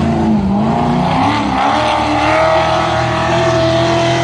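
Off-road race truck's engine under power, its pitch wavering at first, then climbing and holding steady at high revs from about halfway through.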